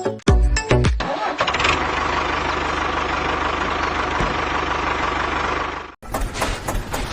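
Tractor engine sound effect: the engine starts and settles into a steady idle with a fast, even chug, cuts off suddenly about six seconds in, and a short burst of starter cranking follows.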